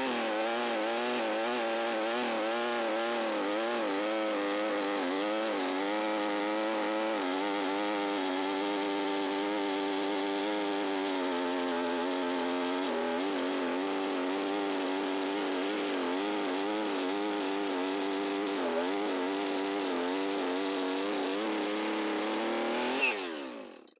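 Husqvarna 450 Rancher two-stroke chainsaw cutting through a black cherry log, its engine pitch wavering up and down under load, running a little rough. Near the end the engine is shut off and winds down.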